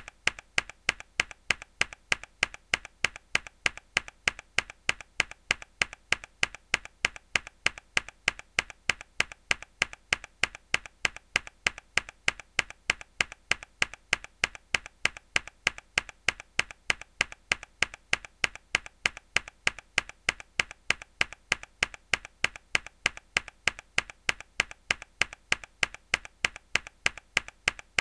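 Mechanical keyboard key pressed hard, over and over at an even pace of about three clicks a second, each sharp click followed by a fainter one.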